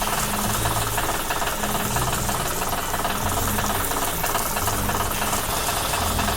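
Excavator's diesel engine running steadily with a fast, even knocking rattle.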